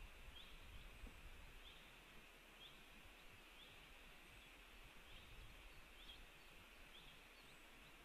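Near silence: faint, short high chirps repeating about once a second from a bird, over a low hiss and faint wind rumble.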